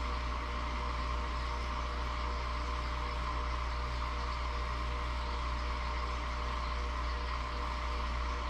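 Steady low hum with an even hiss over it, like a small motor or fan running, unchanging throughout; no frog calls stand out.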